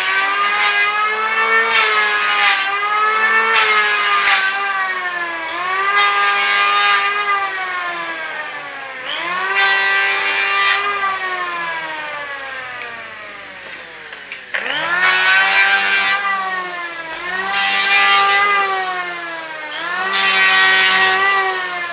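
Electric hand planer shaving wood in repeated passes: the motor whine climbs as it spins up, a rush of cutting noise runs through each pass, then the whine falls away as it winds down, about eight times.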